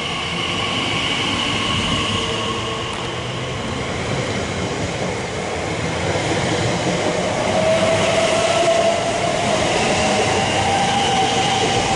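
Class 345 electric multiple unit pulling away from the platform, its traction motors whining over the rumble of the train. From about halfway through, one whine rises steadily in pitch as the train gathers speed.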